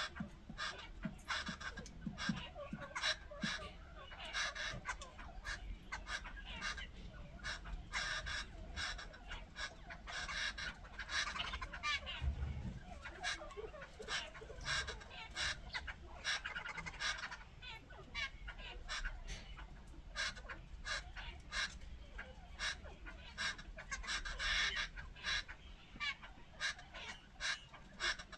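Jungle babblers giving a rapid series of short, chattering calls, one after another with hardly a pause.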